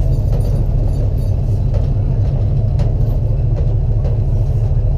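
Race car engine running, a steady, loud, low rumble that holds level without any revving up or down.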